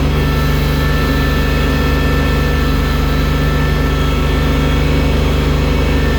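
Engine of a bucket loader running steadily at an even speed while moving snow, with a steady high whine above it.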